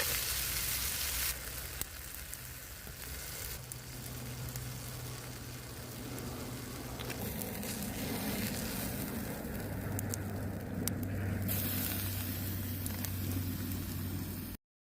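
Food sizzling and frying in a pan over a campfire, a steady hiss with a few light clicks and taps. It cuts off abruptly near the end.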